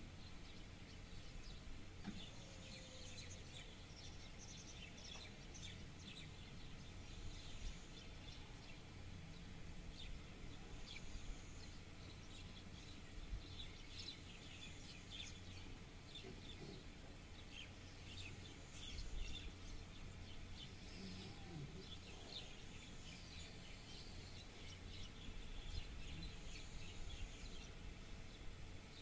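Small birds chirping and twittering faintly, many short calls scattered throughout, over a steady low hum.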